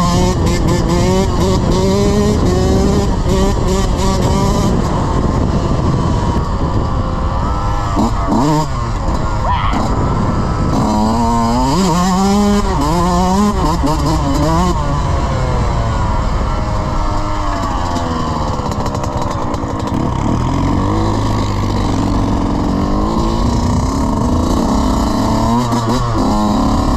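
Off-road motor vehicle engine revving hard, its pitch repeatedly climbing and dropping as the throttle opens and closes, in a quick run of rises in the middle.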